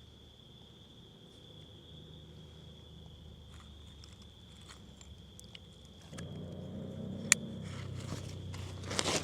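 An insect chirring as one steady, unbroken high tone. About six seconds in, louder rustling and handling noise starts, with a sharp click and then a cluster of knocks near the end.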